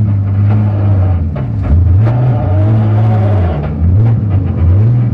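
BMW drift car's engine, heard from inside the cabin, revved up and down several times. It holds high revs, drops and rises again, with quicker blips near the end.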